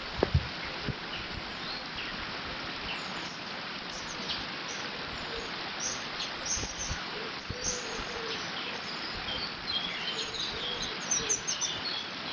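Steady rush of water flowing through a beaver dam, with small birds chirping and singing over it, busier in the second half. Two sharp knocks come just after the start.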